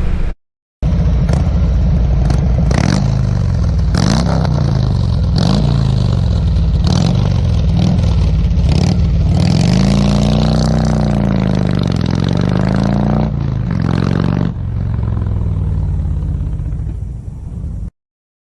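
Harley-Davidson Road King's V-twin engine running under way, with road and wind noise; its pitch rises and falls as the speed changes. It drops in level about fourteen seconds in and cuts off suddenly near the end.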